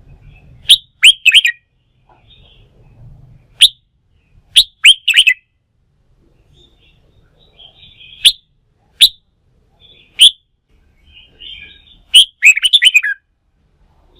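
Red-whiskered bulbul singing: loud, short, sharp downward-sweeping notes in bunches, with softer chattering between, and a dense run of notes near the end.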